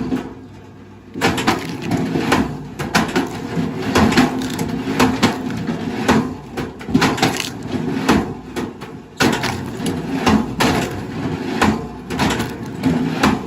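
Wood cracking and splintering in quick, irregular sharp snaps, with a pause of about a second at the start.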